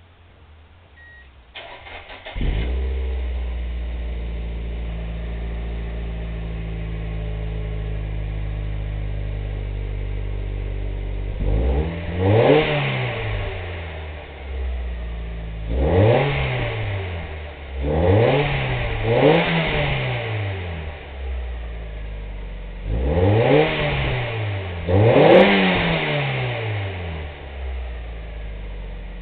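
2004 Mazda Miata's ported 1.8-litre BP four-cylinder, with an open-filter intake and a bolt-on muffler, cranks and catches about two seconds in, then idles steadily. From about twelve seconds on it is revved six times in quick blips, the pitch rising and falling each time, before settling back to idle.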